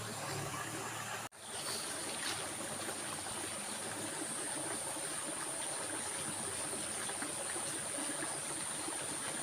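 Stream water running steadily, with a steady high-pitched tone above it. The sound cuts out for an instant about a second in.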